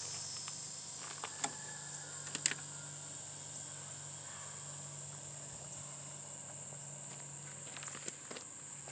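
Crickets chirping in a steady high drone, with a faint low hum underneath and a few small clicks.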